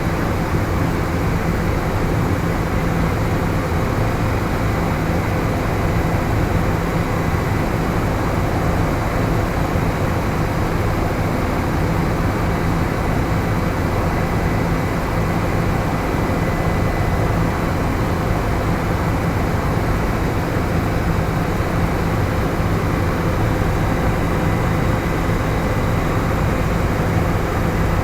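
Helicopter in flight: a steady, unchanging drone of engine and rotor with a few constant tones running through it.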